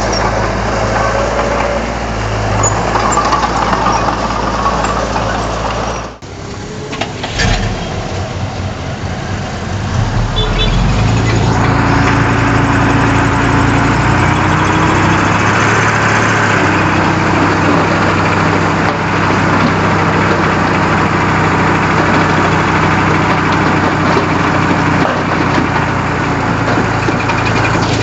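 Komatsu D31 bulldozer's diesel engine running under work. The sound breaks off sharply about six seconds in, then comes back louder and steady from about twelve seconds.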